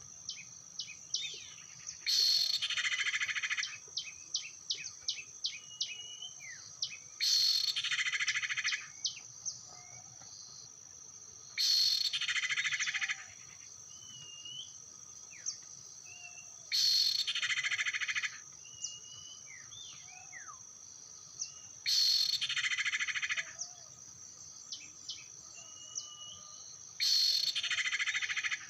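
Common iora (sirtu/cipow) lure calls: a harsh buzzing churr about a second long, repeated evenly about every five seconds, with short whistled chirps in between. A steady high insect drone runs underneath.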